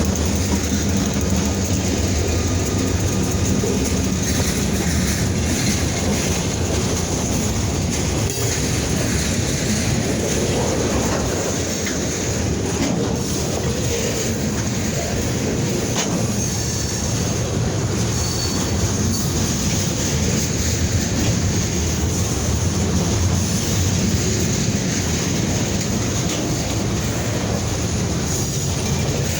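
Freight train rolling steadily past, its wheels clacking over the rail joints with a thin, continuous high squeal from the wheels.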